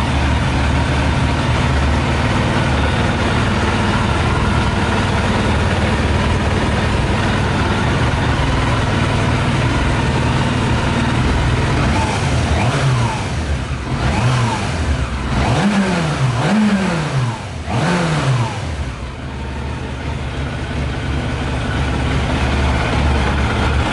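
Yamaha YZF600R's inline-four engine running on 40% whisky in the tank instead of petrol. It idles steadily, is revved in several quick throttle blips about halfway through, and then settles back to idle.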